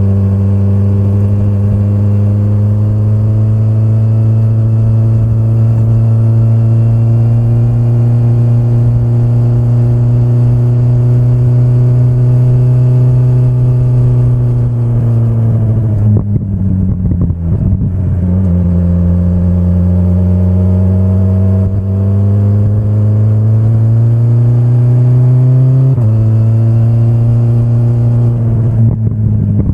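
2025 BMW S1000RR's inline-four engine under way, its note climbing slowly with rising revs. About halfway the revs fall away and the note goes ragged as the throttle closes, then builds again until it steps down suddenly near the end with a gear change.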